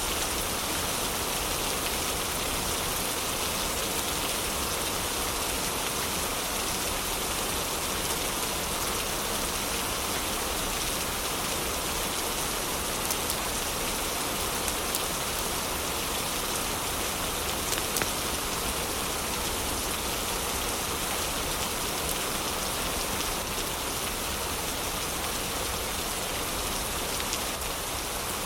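Steady heavy rain, an even hiss with a few brief sharp ticks around the middle.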